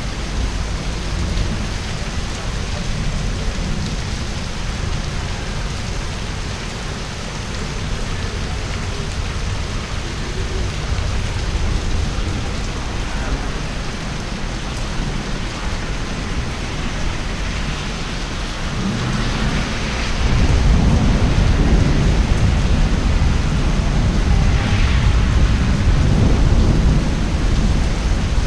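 Heavy rain falling steadily during a thunderstorm, with thunder rumbling; a louder, deeper rumble of thunder swells up about two-thirds of the way through and carries on.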